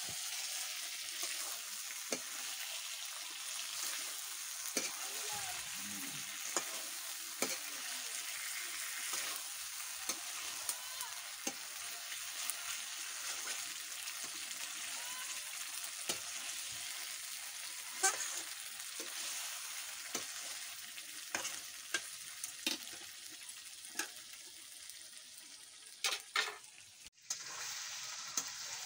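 Chicken pieces in masala sizzling and frying in an iron kadai, stirred with a metal spatula that scrapes and clicks against the pan every second or so. The sound briefly drops out near the end.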